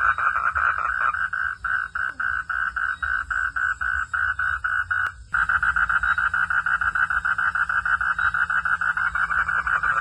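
A chorus of calling frogs at night, a fast pulsed trill of about five pulses a second. It drops out briefly with a click just past halfway, then comes back denser and steadier.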